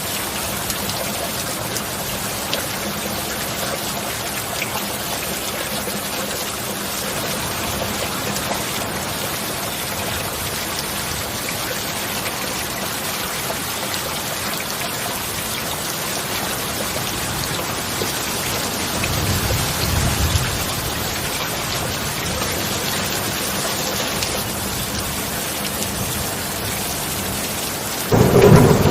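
Steady heavy rain, with a low roll of thunder about two-thirds of the way through and a sudden louder thunderclap near the end.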